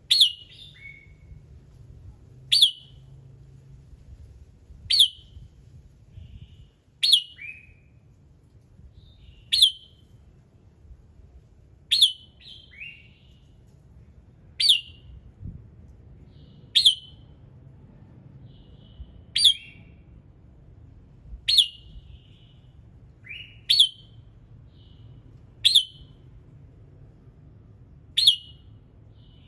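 Red-whiskered bulbul calling: a short, sharp, down-slurred note repeated about every two and a half seconds, some notes trailed by a softer, lower one. A faint low hum sits underneath.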